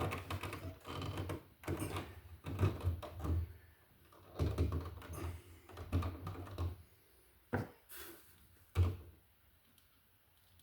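Irregular clicks, taps and low knocks of hand tools and stiff copper wire being handled while a white neutral wire is connected to a wall receptacle. The handling noise thins out and goes quieter in the last couple of seconds.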